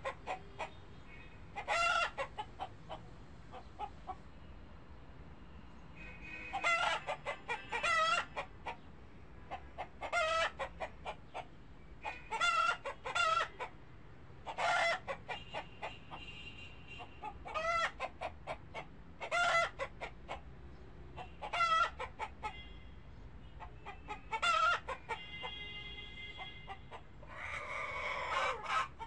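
Repeated short bird calls, each a quick run of pulses, coming about once every two seconds with fainter calls in between; a rougher, noisier call comes near the end.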